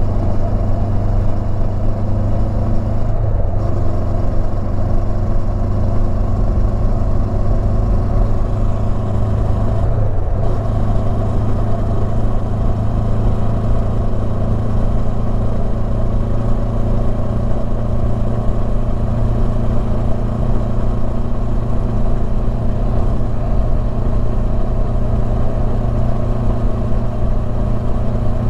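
Honda CB500X's parallel-twin engine running steadily under way, with two brief dips in the sound about three and ten seconds in.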